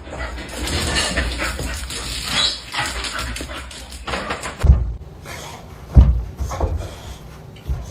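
A pet dog's sounds, with two sharp thumps in the second half, the second one the loudest.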